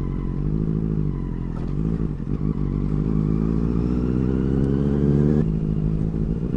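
Benelli 600i's inline-four engine running under way at steady revs, its pitch easing up and down a little, with a brief unsettled patch about two seconds in.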